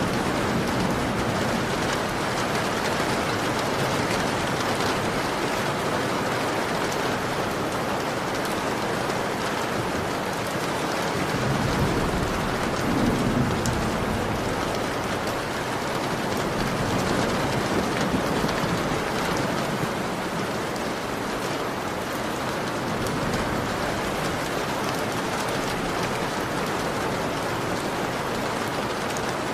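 Heavy rain beating steadily on a window, a dense hiss full of fine drop ticks, with a low rumbling swell about midway through.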